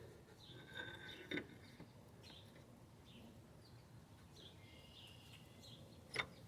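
Very faint background bird chirping, with two light clicks, one about a second in and a sharper one near the end, as the alignment shaft is worked into the engine coupler.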